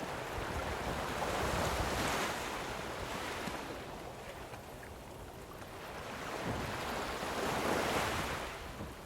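Lake waves washing onto the shore, swelling up twice, over a steady low rumble of wind on the microphone.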